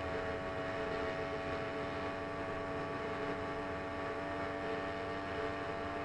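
Small engine of a motorized bicycle running steadily, its pitch holding even throughout.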